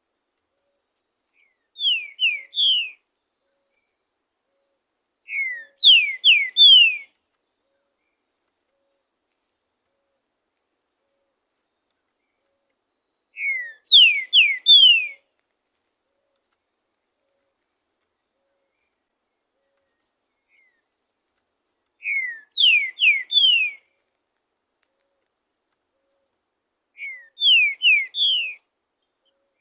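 Green-winged saltator (trinca-ferro) singing: five short phrases, each of three or four quick downslurred whistles, with long silent gaps between them.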